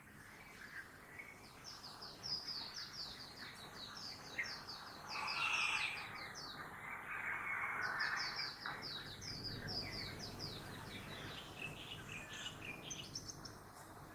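A songbird sings long, fast runs of high, down-slurred chirps, about four or five notes a second, pausing briefly around the middle. Beneath it, town traffic noise swells and fades in the middle.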